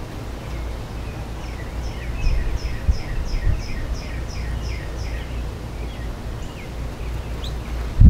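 A small songbird calling: a quick, even series of high chirps, about three a second for several seconds, then a few scattered chirps. A low, steady background rumble runs underneath.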